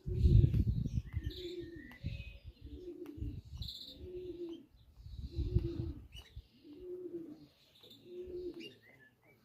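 Racing pigeons cooing, a low rolling coo repeated about once a second, with small birds chirping higher up. Low rumbles, loudest at the start and about five and a half seconds in, sound over the cooing.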